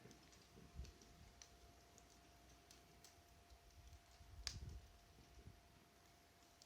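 Wood fire crackling faintly: sparse, irregular pops and snaps, the loudest about four and a half seconds in.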